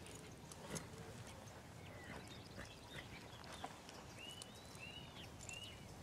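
Quiet rural outdoor ambience with a few faint clicks and knocks, and a bird giving a series of short, evenly spaced chirps starting about two-thirds of the way through.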